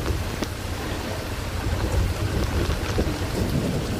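Heavy rain hitting a car's windscreen and roof, heard from inside the cabin, with scattered drop ticks over a steady low rumble of the vehicle driving on the wet road.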